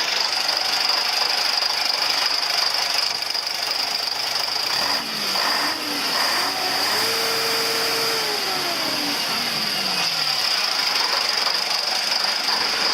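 Scania SBAT 111SA 6x6 truck's diesel engine running, with a steady high whine over it. About five seconds in, a pitched tone climbs, holds, then slides back down and fades around ten seconds in.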